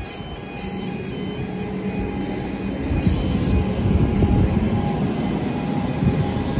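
Electric suburban train pulling out of the station and passing close by: its motors hum and its wheels run on the rails with a low rumble that grows louder over the first few seconds, then holds steady.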